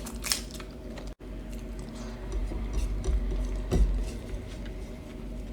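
Eating sounds: scattered light clicks and clinks of a plate and food being handled, over a steady low hum. The sound cuts out for an instant about a second in.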